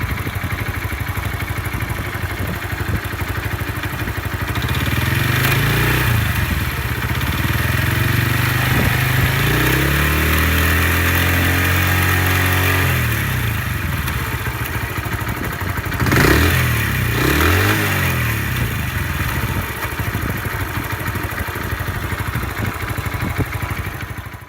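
Honda Super Cub AA01 single-cylinder engine bored up to 85 cc with a Kitaco kit, idling with a rapid rattle and revved up, held for several seconds, dropped back, then blipped twice. The abnormal noise from around the crank is engine knocking (detonation), not a failed crank bearing.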